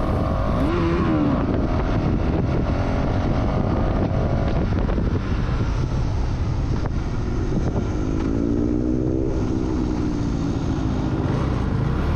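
Motorcycle engine at speed on a race track, its pitch rising and falling through gear changes, under heavy wind rush on the microphone.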